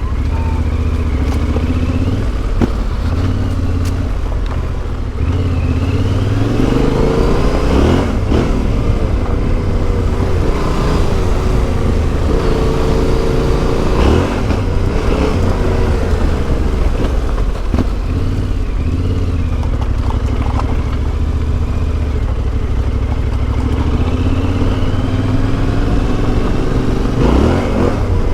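Yamaha Ténéré 700's CP2 parallel-twin engine through an Akrapovic exhaust, running under way and rising and falling in pitch as the throttle opens and closes, with rising sweeps about a quarter of the way in and again near the end.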